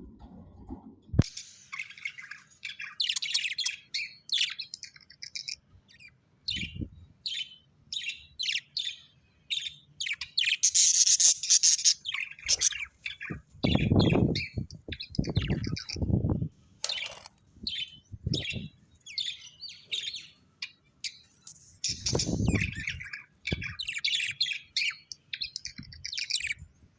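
Small birds chirping and twittering in quick, overlapping calls, with a few short, deeper, louder sounds about halfway through and again near the end.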